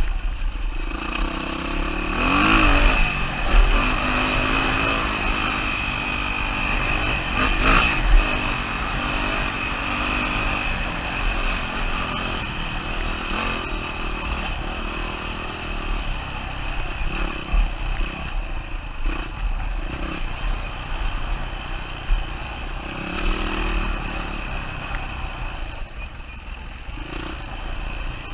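2007 Yamaha WR450 dirt bike's single-cylinder four-stroke engine running and revving up and down while riding a rough trail, with clattering knocks, the sharpest about three and a half seconds in and about eight seconds in.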